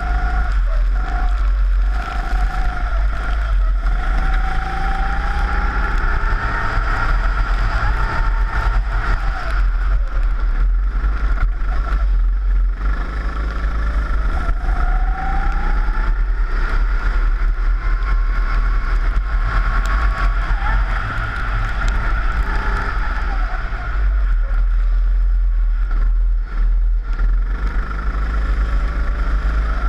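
Four-stroke rental kart engine revving up and down lap after lap, its pitch rising on each acceleration and dropping off when the driver lifts, over a constant low rumble.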